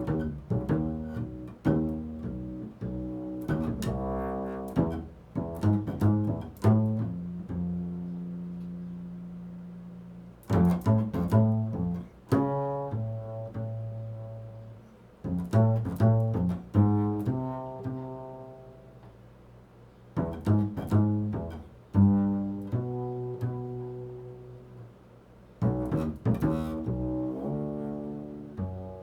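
Improvised solo music on a low string instrument: short phrases of plucked notes, each ringing and fading away, with brief pauses between phrases.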